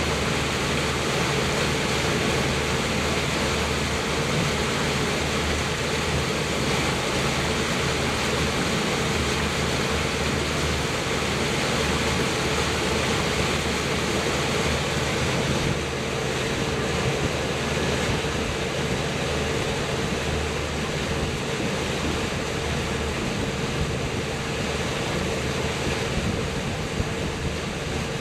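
Motorboat underway: the engine runs at a steady hum, with water rushing along the hull and wind buffeting the microphone.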